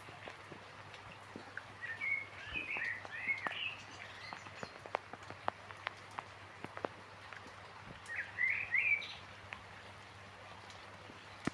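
Raindrops falling in scattered, irregular ticks, with a small songbird twittering in two short phrases, about two seconds in and again about eight seconds in.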